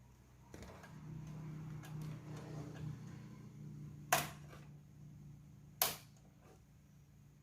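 A low steady hum with light rustling handling noise, and two sharp clicks, about four and six seconds in.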